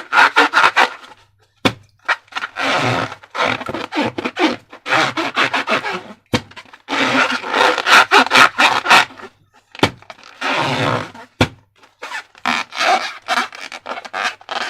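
Slime being squished and worked by hand: repeated wet, crackly squishing bursts, each lasting about a second, with a few sharp sticky clicks in the short gaps between them.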